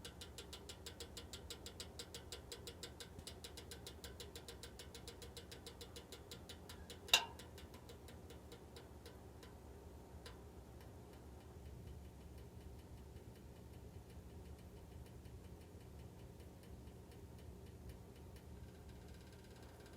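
HELLER (嘉儀) electric heater giving off the abnormal noise it is being recorded for: rapid, even ticking, several a second, over a steady low hum. A single loud click comes about seven seconds in and a fainter one a few seconds later, after which the ticking fades.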